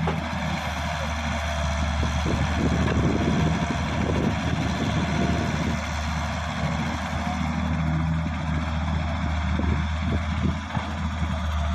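A large diesel engine of the working machinery running steadily, with a constant low hum.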